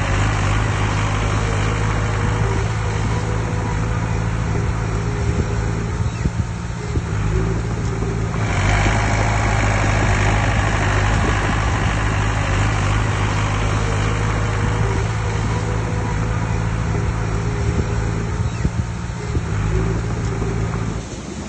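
Heavy diesel engine of earthmoving machinery running steadily, growing louder and harsher from about eight seconds in, as under load.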